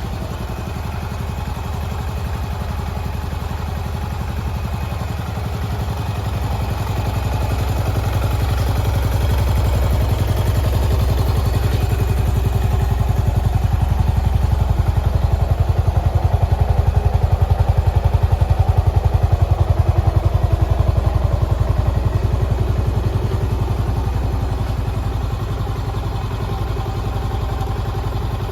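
Yamaha SR400's air-cooled single-cylinder four-stroke engine running at a steady low speed, with an even thumping pulse. It grows louder through the middle and eases back toward the end.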